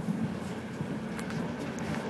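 Steady running noise of a passenger train heard from inside the carriage, a low rumble of wheels on the rails, with a few light clicks.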